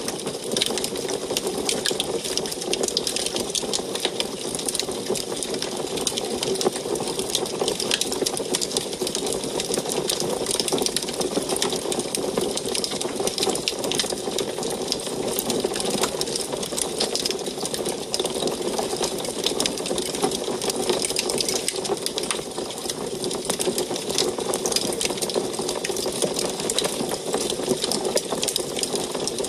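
Wood fire burning in an antique wood stove: a constant stream of small crackles and pops over a steady rushing sound.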